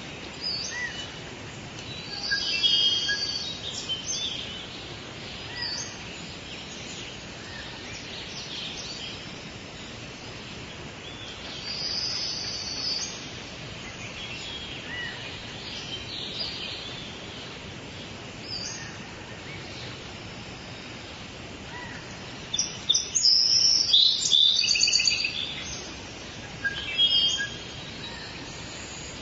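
Birds chirping and calling in short, high notes at intervals over a steady background hiss, with a busier flurry of calls about three-quarters of the way through.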